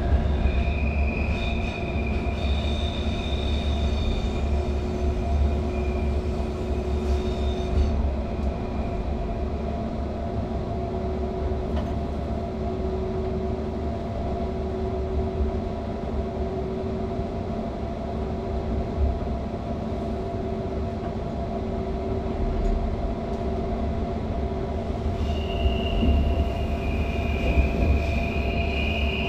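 Flåm Railway train running, heard from the cab: a steady low rumble, with a high wheel squeal from about a second in for several seconds and again near the end.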